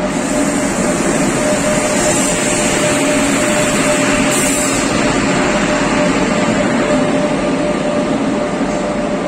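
WAP-7 electric locomotive hauling a passenger express into the platform and running close past, followed by its coaches: a loud, steady rumble of train running with a steady hum held throughout.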